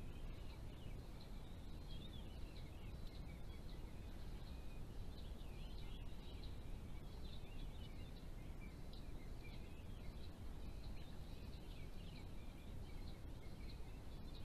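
Small birds chirping and twittering continuously in quick, thin, high calls over a steady low rumble of background noise.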